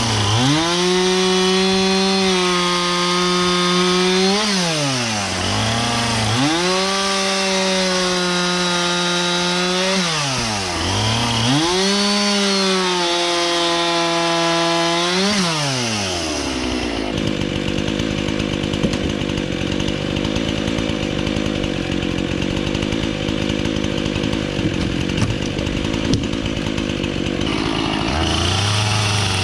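Husqvarna two-stroke chainsaw running at full throttle and cutting firewood rounds from dry oak logs, the engine dropping back and climbing again between cuts about every five seconds. After the third cut the sound turns into a longer, rougher stretch without a clear engine note, and the saw revs up to full pitch again near the end.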